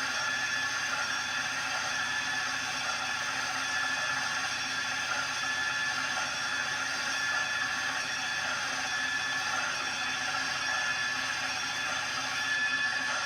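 A steady mechanical whir and hiss with several constant high tones, unchanging throughout.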